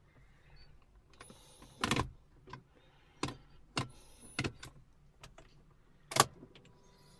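A handful of sharp clicks and knocks inside the car as the ignition is tried, with no sound of the engine cranking or running: the no-crank fault.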